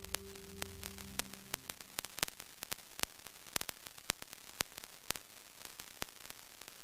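Radio static: a steady hiss crackling with irregular sharp clicks, over a low hum that fades out after about a second and a half. It cuts off suddenly at the end.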